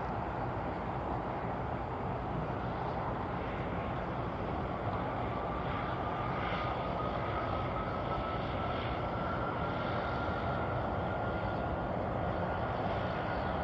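Jet aircraft engines running steadily, with a faint whine that starts about a third of the way in and slowly rises in pitch.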